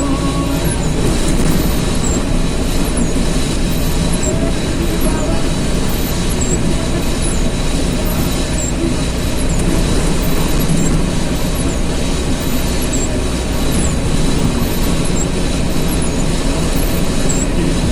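A vehicle driving, with steady engine and road noise that stays level throughout.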